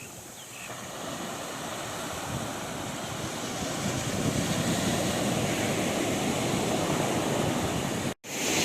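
Ocean surf breaking and washing up a sandy beach, a steady rushing noise that swells louder over the first few seconds and then holds. Near the end the sound cuts out for an instant.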